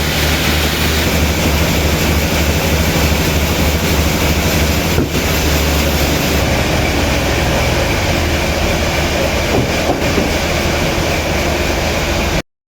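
Sawmill machinery running with a loud, steady low hum and hiss, cutting off suddenly near the end.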